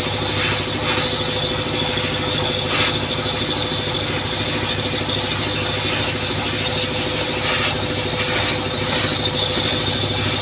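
Steady machinery drone with a constant high hiss or whine over a low hum, without pause or change.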